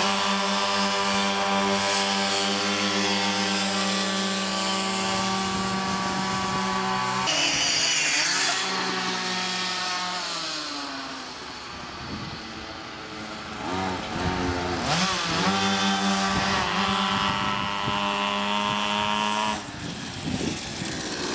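Minibike engine running at steady high revs, then the pitch drops and falls away for several seconds before it picks up again, holds steady, and drops off near the end.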